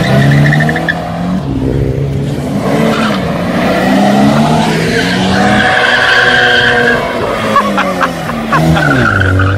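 Toyota 86 sports cars' 2.0-litre flat-four boxer engines pulling away one after another, the revs rising and falling as each car accelerates past.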